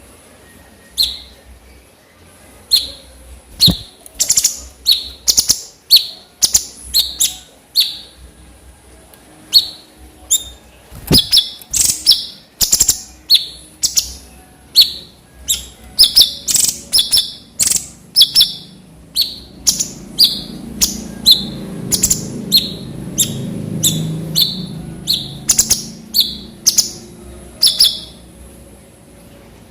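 A cucak cungkok calling over and over: short, sharp high notes fired one after another, often in quick pairs. A faint low rumble sits under the calls in the middle stretch.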